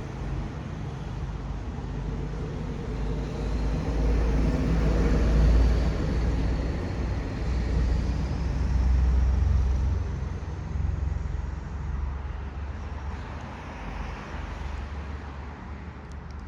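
A passenger train rolling past, with a low rumble that swells and then fades away. A faint high squeal rises in pitch through the middle of it.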